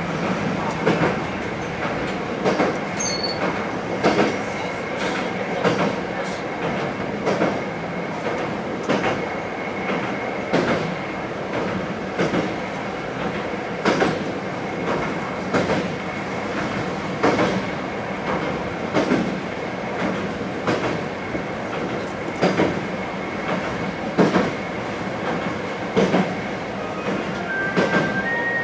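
Diesel railcar running steadily, heard from inside the cab, its wheels clicking over rail joints about every 1.7 seconds, with a faint steady high whine underneath.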